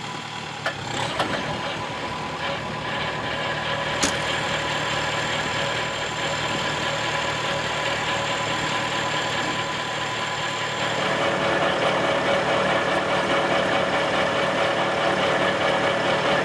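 Engine of road repair machinery running steadily, with a sharp knock about four seconds in; the machine noise grows louder from about eleven seconds on.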